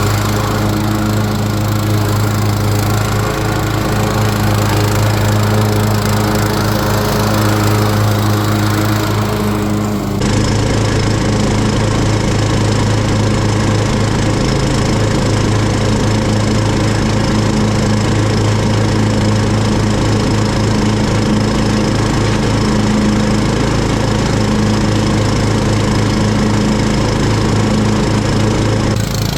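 Cub Cadet XT1 riding lawn mower running steadily under load while mowing long grass. The sound changes abruptly about ten seconds in, then the mower runs on the same way.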